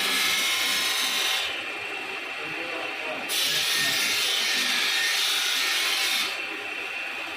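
Power grinder working a steel knife blade, a steady high hiss that eases off about a second and a half in, comes back strongly near the middle, and eases off again about six seconds in as the blade is pressed to and lifted from the abrasive.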